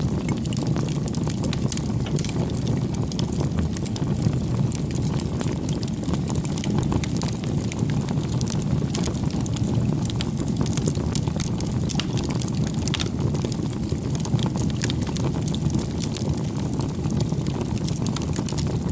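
Wood campfire burning: a steady low noise from the flames with frequent small crackles and pops from the burning wood.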